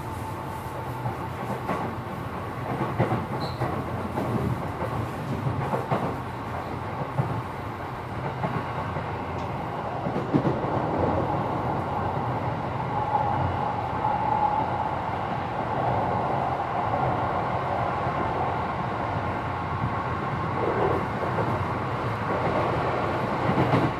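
Running noise heard inside a Keikyu New 1000 series motor car with a Mitsubishi SiC-VVVF inverter: a steady rumble of wheels on rail with scattered rail-joint clicks, getting slightly louder a little under halfway through. A brief steady tone sounds about halfway.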